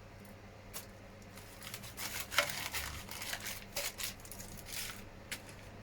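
Small plastic model-kit parts and plastic parts bags being handled: crinkly rustling with light clicks and taps, in uneven bursts.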